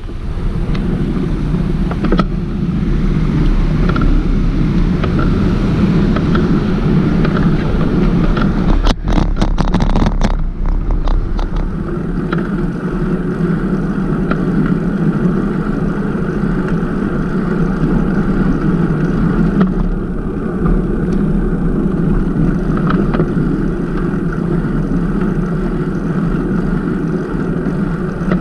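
Steady rushing wind and road noise on a microphone carried on a moving bicycle, with a quick cluster of clicks and knocks about nine to ten seconds in.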